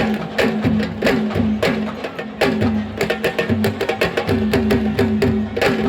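Music led by fast, sharp drum strokes several times a second over a steady low tone, in the style of Senegalese sabar drumming.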